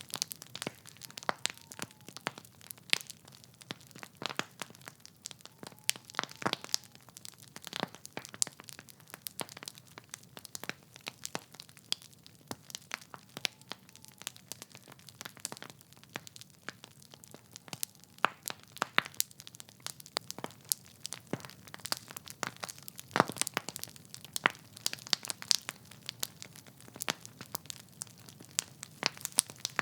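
Wood fire burning in a fireplace: logs crackling and popping irregularly over a faint low rumble of the flames.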